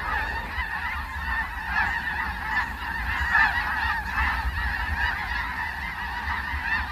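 A large flock of snow geese calling all at once, a dense continuous chatter of many overlapping honks.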